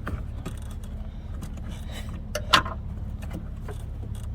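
Small clicks, taps and knocks of hands and a screwdriver working the plastic cabin air filter cover and screws under a van's dashboard, with one louder knock about two and a half seconds in, over a steady low hum.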